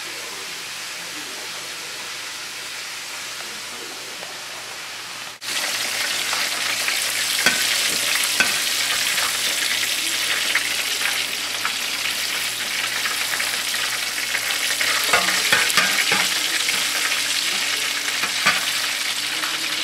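Flour-dusted pork chops frying in hot oil: a steady sizzle that gets louder after a cut about five seconds in, dotted with many small crackling pops.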